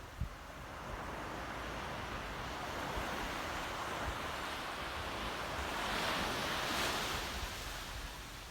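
Sea waves washing in, one long surge that builds and is loudest about six seconds in before easing off, with low wind rumble on the microphone.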